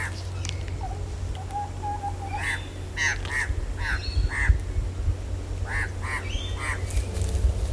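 A bird calling in runs of short, harsh notes, about three a second, over a steady low rumble of walking and handling noise.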